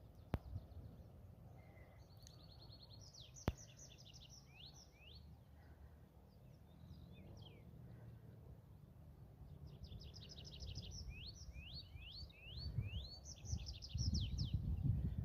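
Small songbirds singing in two bouts, about two seconds in and again from about ten seconds on, with fast high trills and runs of quick sweeping notes. Under the song there is a low rumble that gets louder toward the end, and two sharp clicks come early.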